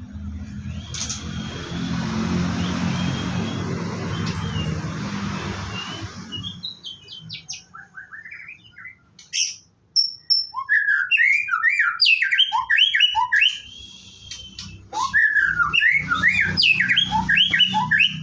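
White-rumped shama (murai batu) singing: rapid, varied phrases of whistles and chirps, starting about six seconds in and coming in two loud bouts. Before the song, a steady rushing noise with a low hum.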